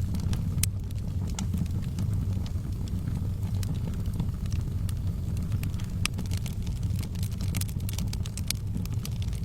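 Fire burning in a fireplace, crackling with irregular sharp pops over a steady low rumble of the flames; a quick run of crackles comes near the end.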